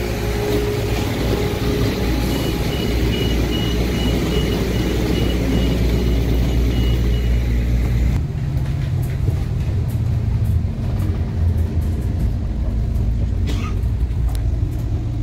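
Music with a rapid, repeated high beep over it, cutting off about eight seconds in to the steady low rumble of a moving vehicle with light clicks and rattles.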